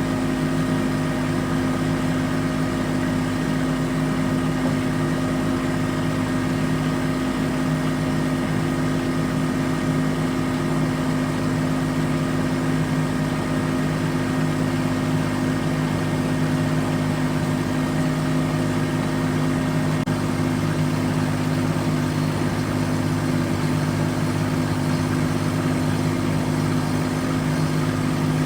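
An engine running steadily at one constant speed, with a steady hum that does not rise or fall.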